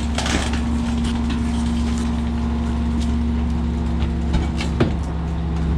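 Autocar rear loader garbage truck with a McNeilus body running steadily, a constant low rumble with a steady hum above it, and a couple of short knocks about four and a half seconds in.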